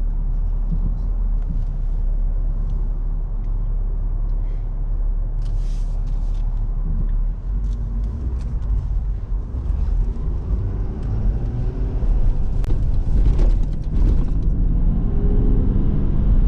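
A Ford 6.7-litre Power Stroke V8 turbo diesel pickup driving, heard from inside the cab as a steady low engine and road rumble. In the second half the engine note rises in pitch and grows louder as the truck speeds up.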